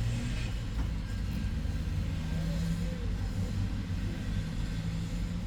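Toyota Hilux Mighty-X pickup's engine idling with a steady low hum.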